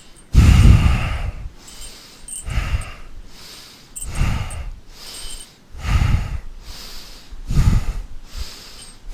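A person breathing deeply and forcefully close to the microphone in a slow, steady rhythm: five loud breaths, about one every two seconds, as in a yogic breathing exercise.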